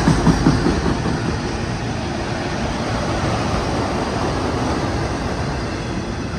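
Freight train of enclosed autorack cars rolling past at close range: a steady rumble of steel wheels on rail, with a few clacks of the wheels in the first half-second.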